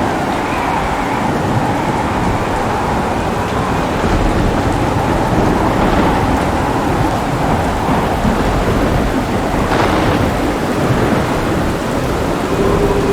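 Heavy rain falling with continuous rolling thunder, and a sharper crack about ten seconds in.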